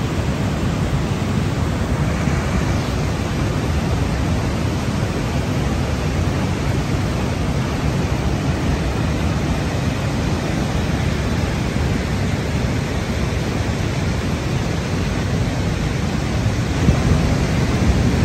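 Steady roar of rushing floodwater, an even noise heaviest in the low end, growing a little louder near the end.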